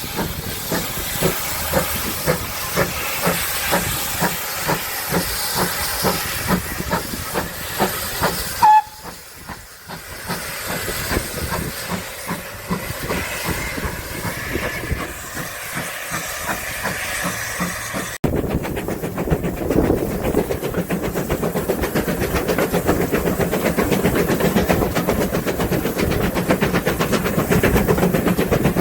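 Steam locomotive working, with a steady hiss of steam over quick regular beats and a brief loud burst about nine seconds in. After an abrupt break about eighteen seconds in, a steadier, fast rhythmic running noise of the train takes over.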